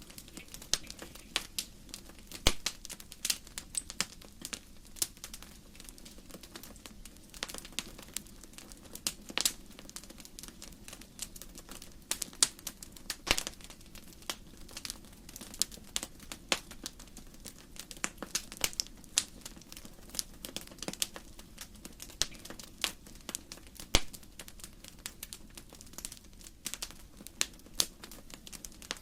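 Burning firewood crackling in a fireplace: irregular sharp pops and snaps, a few louder ones, over a soft steady background of the fire.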